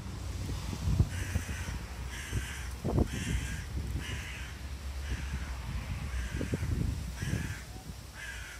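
A bird calling over and over, about ten evenly spaced calls a little under a second apart, over a low rumble and a few soft thumps from the camera being carried on foot.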